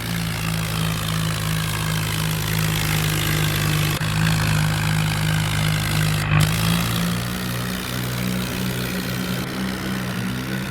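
New Holland tractor's diesel engine running steadily under a full load, its note shifting slightly about six and a half seconds in.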